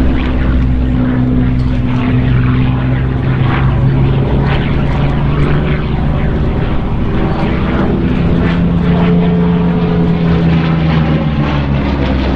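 Piston engines of WWII propeller fighters in flight, a steady drone whose tones shift in pitch partway through as the aircraft pass.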